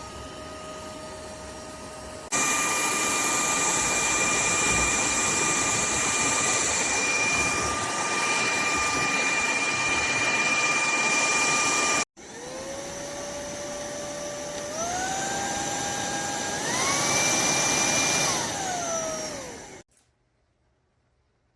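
Cordless stick vacuum's motor running with a steady whine that jumps much louder about two seconds in. After a sudden cut it starts again, its whine stepping up in pitch twice, then falls in pitch and stops.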